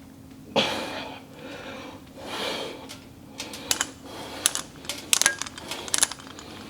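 Two heavy breaths during calf raises, followed by a quick run of sharp metallic clicks and clinks, over a steady hum in the room.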